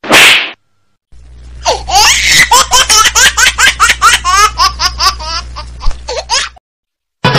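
Canned laugh-track sound effect: high-pitched cackling laughter in quick pulses, about four a second, lasting about five seconds. It is preceded by a brief rushing noise at the start.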